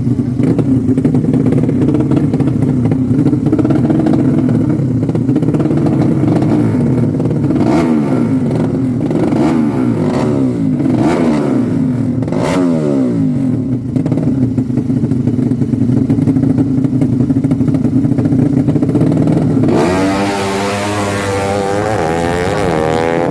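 Drag-racing motorcycle engines running loud, their pitch swinging up and down several times through the middle. Near the end a higher engine note revs up and down in quick waves.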